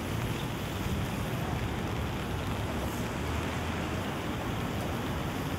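Steady rain falling on a city street, an even hiss with a low rumble beneath it.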